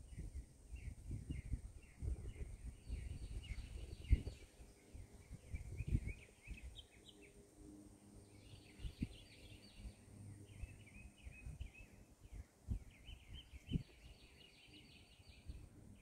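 Small birds chirping and calling over and over in quick clusters, with uneven low rumbling and occasional knocks underneath.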